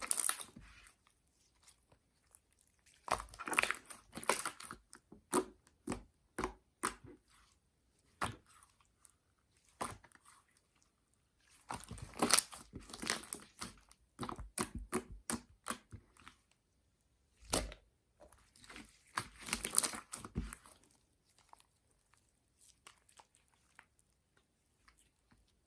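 Jiggly water-jelly slime being squished and pressed by hand. Bursts of wet, crackly squelching and clicking come in three longer clusters, with single clicks between them and short pauses.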